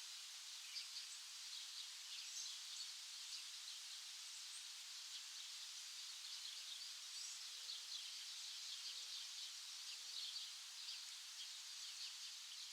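Many small birds chirping together in a dense chorus of short, high calls over a steady hiss, with a few soft low notes in the second half.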